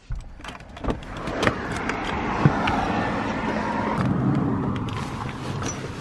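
A road vehicle going by: a steady engine-and-tyre noise that swells for a few seconds and then eases off, with a few sharp clicks and knocks through it.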